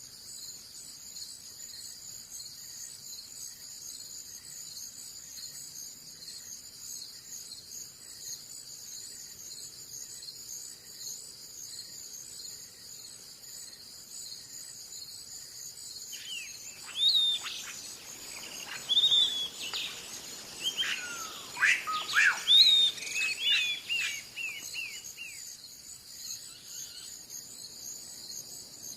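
Steady high-pitched chorus of crickets, with a songbird singing a run of varied whistled, sweeping notes for about ten seconds from just past the middle.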